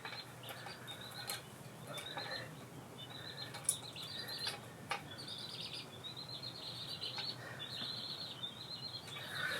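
Faint bird chirping in the background, short runs of high repeated notes, with two faint sharp clicks about four and five seconds in.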